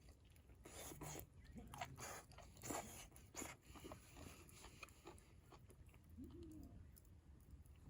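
Faint chewing close to the microphone, with a few crisp crunches in the first half.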